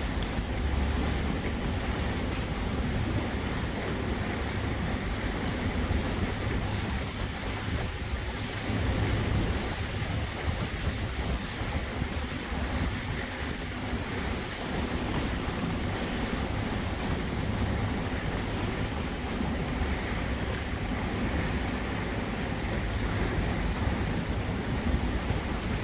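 A boat under way on the water: water rushing and splashing along the hull and wind buffeting the microphone over a low steady rumble.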